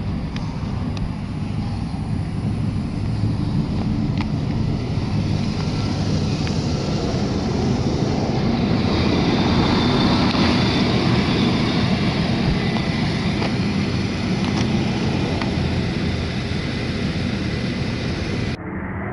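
1979 Cadillac Eldorado's 350 cubic-inch V8 running steadily as the car drives, growing louder for a few seconds in the middle.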